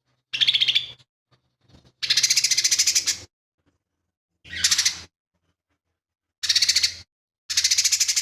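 Cucak ijo mini (lesser green leafbird) singing in five short, harsh, rapid-pulsed rattling bursts with silent gaps between them, the longest lasting about a second. These are the harsh 'tembakan' bursts of its mimicry-filled song.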